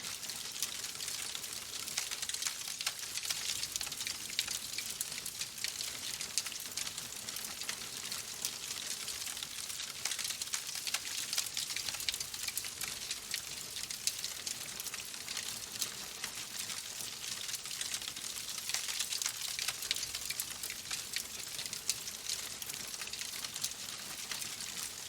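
Wood fire crackling in a fireplace: a steady hiss with dense, irregular small pops and snaps.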